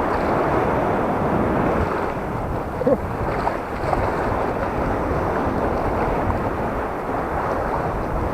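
Sea waves washing and churning around someone wading in the surf, with wind buffeting the microphone and a short, louder pitched blip about three seconds in.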